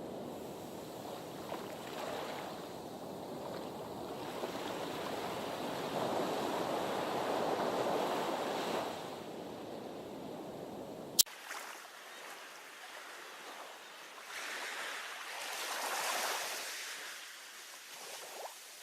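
Sea waves washing against a harbour breakwater, swelling louder for a few seconds before halfway. A sharp click comes about eleven seconds in, after which the low rumble drops away and the wash sounds thinner and quieter.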